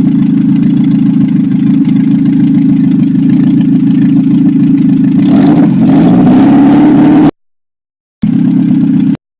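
A ZMZ-406 16-valve four-cylinder petrol engine in a VAZ-2107 idling steadily. About five seconds in it is revved up briefly, and the sound cuts out to dead silence twice near the end.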